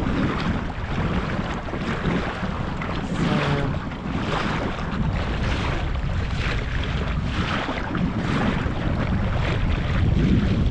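Strong wind buffeting the microphone over choppy water, the rush of wind and water swelling in surges about once a second.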